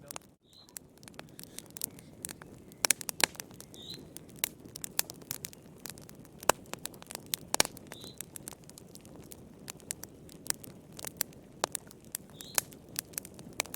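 Wood fire in a fireplace crackling, with many irregular sharp pops and snaps over a low steady hiss of burning logs. The sound drops out briefly just after the start, and a few faint short high whistles come about every four seconds.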